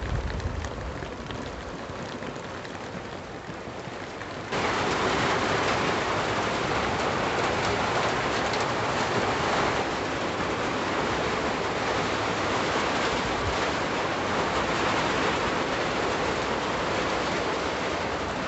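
Heavy rain pouring down steadily, a dense even hiss; about four and a half seconds in it suddenly gets louder and stays that way.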